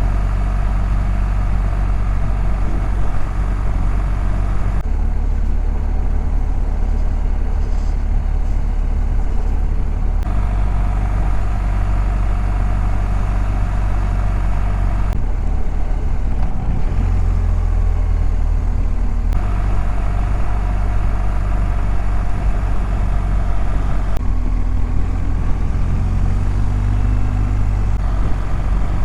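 BMW GS boxer-twin engines running steadily at low road speed in second gear, about 40 km/h. The sound changes abruptly every four to five seconds as matched recordings of the R 1250 GS and the R 1300 GS alternate.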